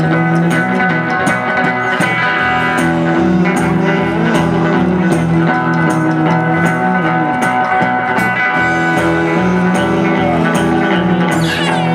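Rockabilly band music: electric guitar over a steady drum beat.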